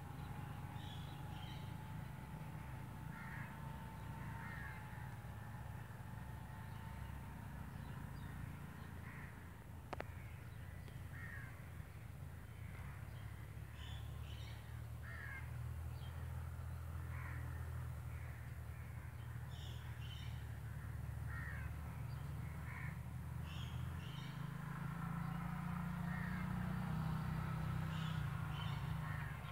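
Birds calling outdoors in short, scattered calls over a steady low hum.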